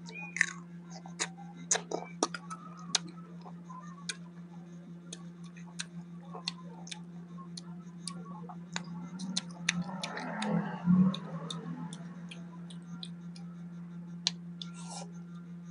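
A person chewing crunchy green mango close to the microphone, with many sharp mouth clicks and smacks scattered throughout and a louder noisy stretch about ten seconds in. A steady low hum runs underneath.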